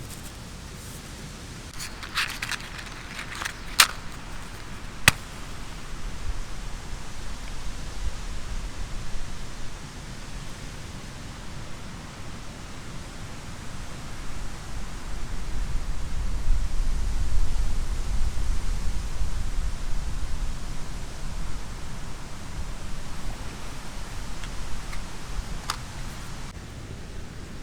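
Wind gusting through forest trees, a steady rushing that swells about two-thirds of the way through, with low buffeting of wind on the microphone. A few sharp clicks come a few seconds in.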